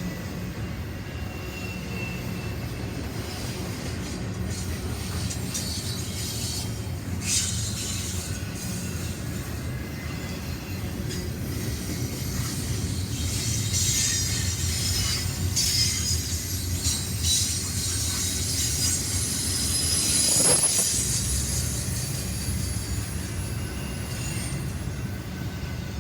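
A train rolling past with a steady low rumble and intermittent high-pitched wheel squeal, strongest in the middle. There is one sharp knock about twenty seconds in.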